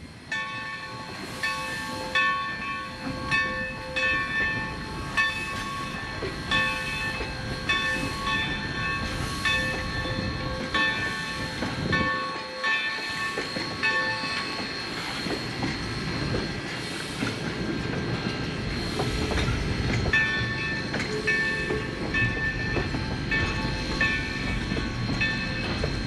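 A bell ringing in a steady rhythm, somewhat under two strikes a second, over the rumble of a passing steam train. The ringing drops away for a few seconds past the middle and then resumes, while the train's rumble grows louder.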